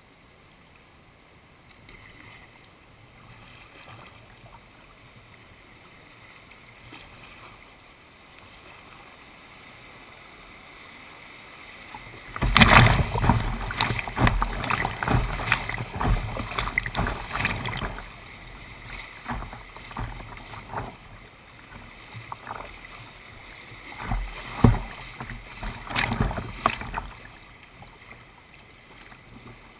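Kayak paddling on river water: soft paddle strokes at first, then loud water splashing with knocks from about twelve seconds in, easing to scattered splashes near the end.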